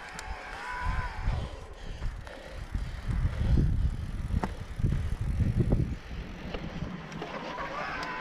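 Mountain bike riding along a trail: wind buffeting the microphone in gusts, loudest in the middle, with rolling bike noise, light clicks and a faint wavering whine.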